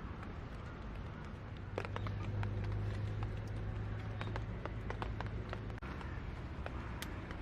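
Wood fire crackling with irregular sharp pops, over a low steady rumble that swells about two seconds in and drops away about six seconds in.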